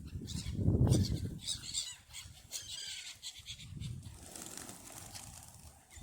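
Geese honking among other waterbirds calling at a feeding spot, in a run of short repeated calls. A low rumble, loudest about a second in, runs underneath.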